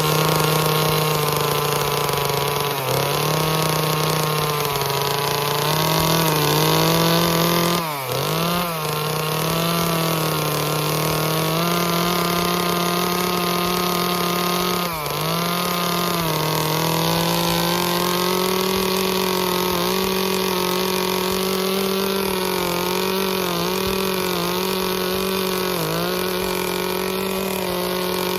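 Chainsaw running at high speed while carving wood, its pitch dipping briefly several times as the chain bites in, most deeply about eight seconds in.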